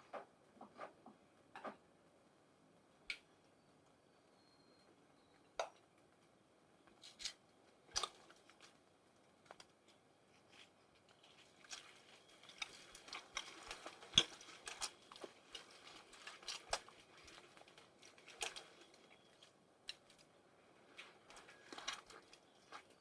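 Quiet handling noises in a small room: a few scattered clicks and knocks, then, about halfway through, a longer stretch of soft rustling and crinkling with small clicks.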